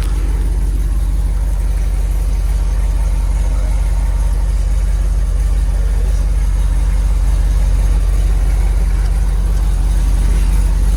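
Chevrolet Silverado 2500HD's 6.0-litre V8 idling steadily through its factory single-muffler exhaust, whose tailpipe has fallen off.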